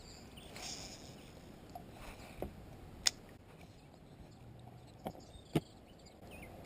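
Four light knocks and clicks, spread out through the stretch, from gear being handled in a fishing kayak. The sharpest comes about three seconds in, and two more come close together near the end.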